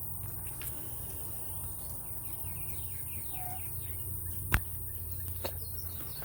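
Steady low hum with faint bird chirps, and a single sharp click about four and a half seconds in.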